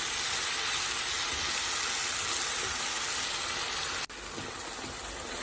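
Onion and tomato masala with a little water frying in a pan, a steady sizzle. It cuts off suddenly about four seconds in, then carries on quieter.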